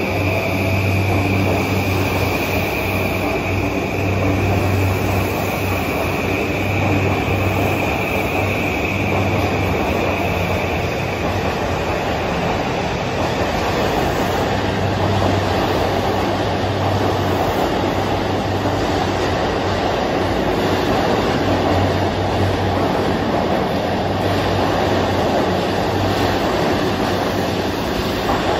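A JR E235-1000 series electric train pulling out of an underground platform, its cars rumbling steadily past with wheel-on-rail running noise. A high steady whine fades away over the first ten seconds or so.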